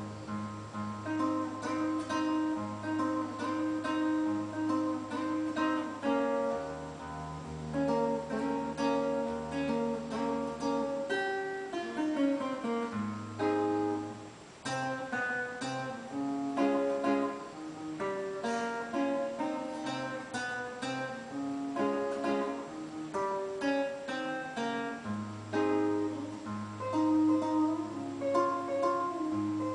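Solo classical guitar playing a fingerpicked piece: plucked melody notes over held bass notes, with a quick descending run about halfway through.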